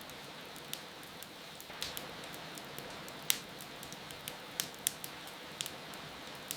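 Wood fire crackling with scattered sharp pops over a steady hiss of rain. The loudest pop comes about three seconds in, with a quick cluster of pops soon after.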